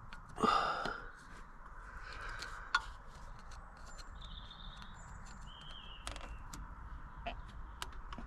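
A man's short, loud, breathy sigh of effort about half a second in, then small scattered clicks and knocks of hands working at a plastic trim clip, with a few faint bird calls.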